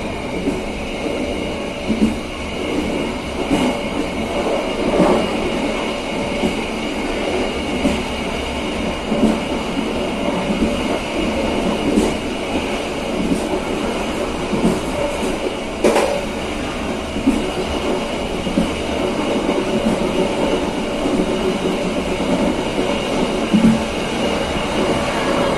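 Passenger train carriage running along the track: a steady rumble of wheels on rail with sharp knocks at uneven intervals as the wheels pass over rail joints, and a faint steady high whine.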